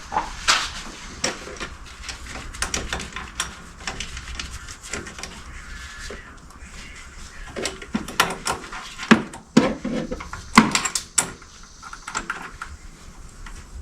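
Irregular clicks and knocks of hand tools and metal parts being handled while a fitting is tightened, with a louder cluster of sharp knocks about nine to eleven seconds in.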